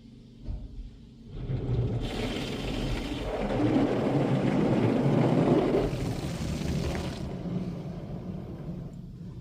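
Spray from a Washworld Razor touchless car wash gantry drumming on the car as the arm passes over it, heard from inside the cabin. The hiss swells about a second in, is loudest in the middle, and fades away near the end, over a steady low hum.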